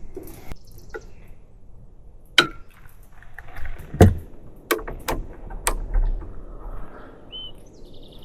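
Handling noises: a series of sharp clicks and knocks, the loudest about four seconds in, as camp gear (a water tank and French press) is worked.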